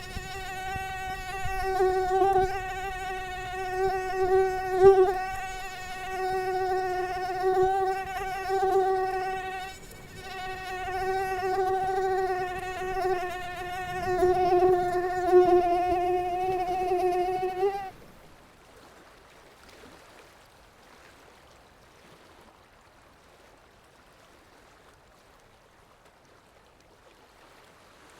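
Mosquito wingbeat whine, a steady high buzz with a slightly wavering pitch. It dips briefly about ten seconds in and cuts off suddenly about eighteen seconds in, leaving a faint hiss.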